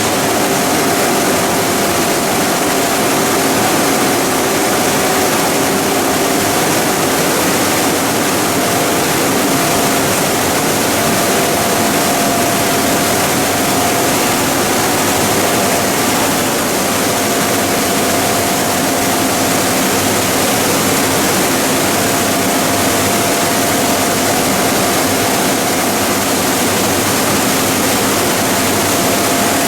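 Machinery of a PE and calcium carbonate pelletizing line running steadily: a loud, even noise with a few constant hums underneath.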